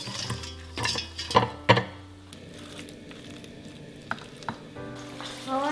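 Oil sizzling as corn fritters fry. In the first two seconds a metal slotted spoon and spatula clink sharply against a plate three times. Later a spoon stirs thick corn batter in a stainless steel bowl.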